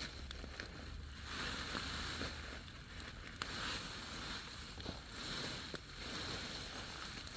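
Bonfire burning: a rushing hiss that swells and fades every second or so, with a few sharp crackles.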